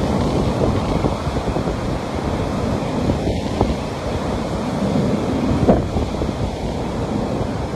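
Sea waves washing onto a beach in a steady, rushing surf, with wind buffeting the microphone as a low rumble.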